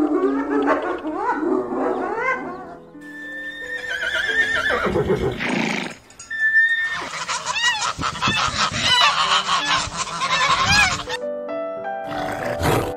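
Background music over animal calls: a spotted hyena calling in rising notes for the first couple of seconds, then a horse whinnying in repeated calls from about seven to eleven seconds in.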